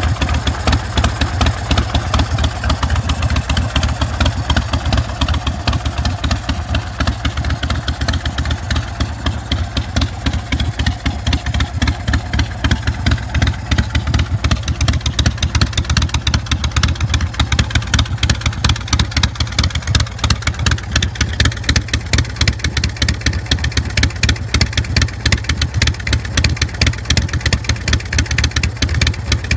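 Big Dog K9 chopper's carbureted 117 cubic inch S&S V-twin running steadily through a Vance & Hines Big Radius exhaust, a rapid even train of firing pulses with a deep low end.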